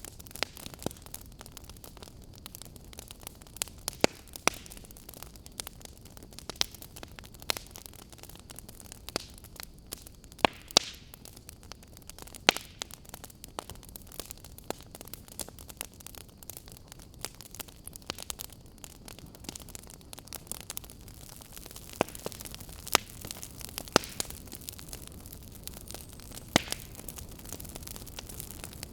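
Fire crackling: irregular sharp pops and snaps, some much louder than others, over a faint steady background noise.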